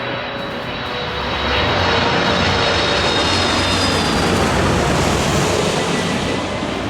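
Jet airliner passing close by: engine roar swells about a second and a half in, holds loud, then eases off near the end, with a faint high whine over it.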